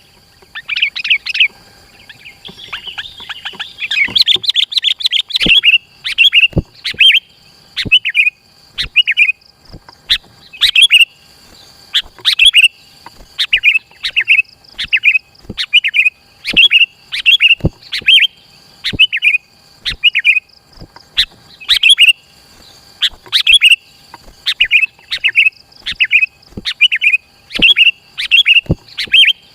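Sooty-headed bulbul (kutilang) singing in short, bubbling chirped phrases repeated about once or twice a second, with a burst of rapid chatter about three to five seconds in. A faint steady high tone runs underneath.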